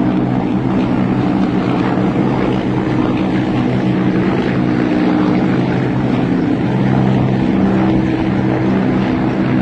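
Military helicopters flying by, a loud, steady drone of their engines and rotors.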